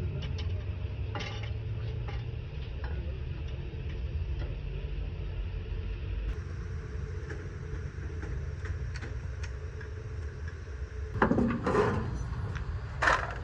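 A steady low engine rumble with scattered light metal clinks, and two louder metallic clanks near the end.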